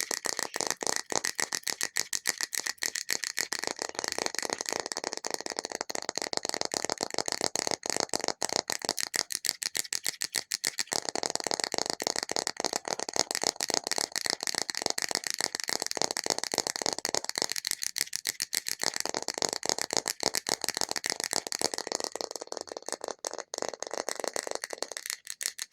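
Extremely fast tapping on an object, a dense unbroken stream of many light taps a second.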